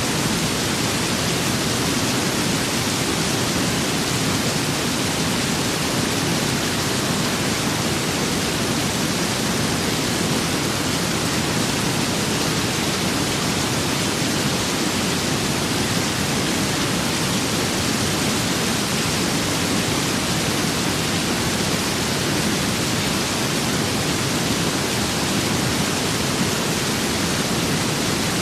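Steady rain with wind: a dense, even hiss that holds without change.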